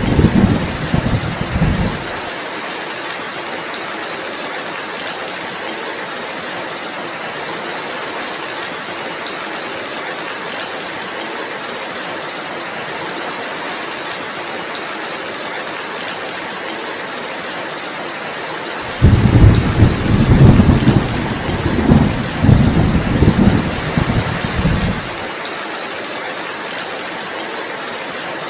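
Heavy rain falling steadily, with rolls of thunder: a rumble that stops about two seconds in, and another that starts about two-thirds of the way through, lasts about six seconds and cuts off suddenly.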